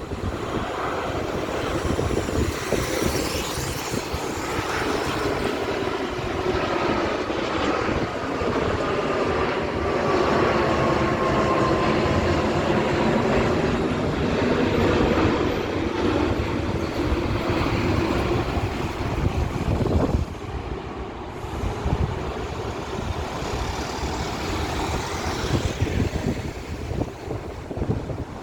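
Boeing 787-9 Dreamliner's jet engines roaring as the airliner passes overhead on approach, with tones that slowly fall in pitch as it goes by. Wind rumbles on the microphone underneath.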